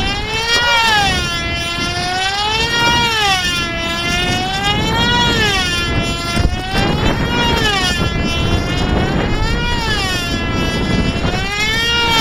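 Small model-airplane engine running flat out as the plane circles, its high buzzing pitch rising and falling once per lap, about every two seconds.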